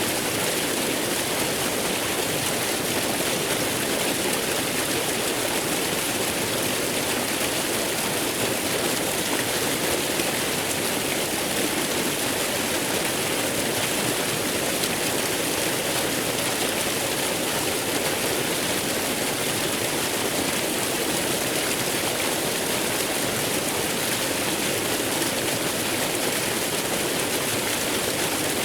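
Waterfall: falling water rushing with a steady, unbroken hiss.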